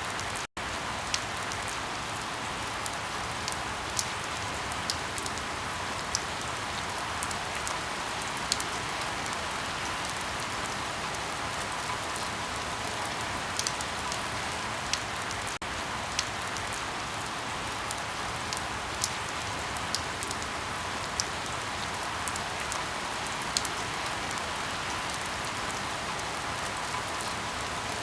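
Steady rain with irregular sharp crackles and pops of burning firewood scattered through it. The sound cuts out for an instant just after the start.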